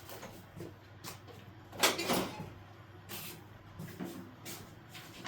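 Scattered clunks and clicks of a tractor part being worked by hand, with the loudest knock about two seconds in. The part keeps locking itself and is stiff to pull.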